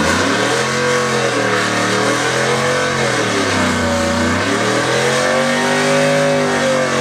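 1999 Chevy Silverado pickup engine revving hard during a burnout, its pitch rising and falling several times, over a steady hiss from the spinning tyres.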